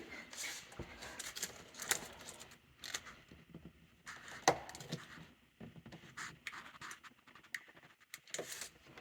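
Hands working plastic tubing and a push-fit water-line fitting: scattered clicks and scrapes, with one sharper click about four and a half seconds in.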